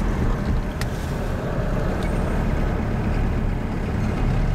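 Car driving, heard from inside: a steady low rumble of engine and tyres on the road, with a couple of faint clicks near the start.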